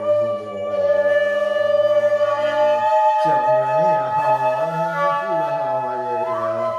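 Free improvised music of sustained wind-instrument-like tones: one steady high note held throughout, joined about three seconds in by a lower tone that wavers up and down in pitch.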